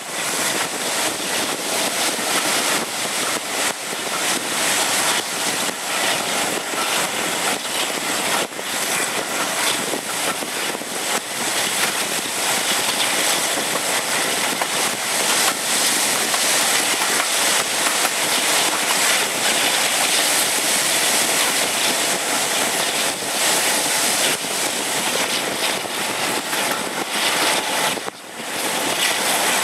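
Wind rushing over the microphone and the running noise of a passenger train at speed, heard from an open carriage window. A steady, loud rush with a short dip near the end.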